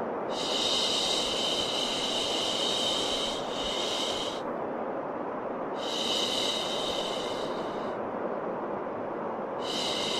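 Long, repeated 'shhh' shushing sounds, each lasting two to four seconds with short gaps between, over a steady white-noise hiss. This is a soothing sound for calming a crying, colicky baby.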